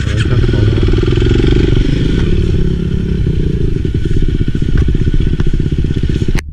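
Enduro motorcycle engine running under way, a dense steady run of firing pulses, cutting off suddenly near the end.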